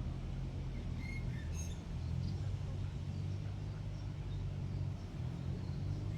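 Steady low rumble of traffic, with a few faint short bird chirps between about one and two seconds in.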